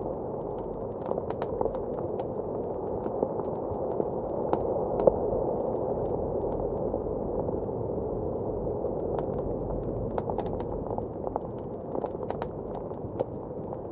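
Wood fire crackling in a fireplace, with irregular sharp pops, over a steady muffled rush of blizzard wind.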